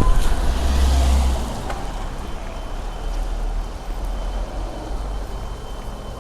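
Steady hiss of rain and wet ground, with wind rumbling on the microphone that is strongest in the first second or so, then eases.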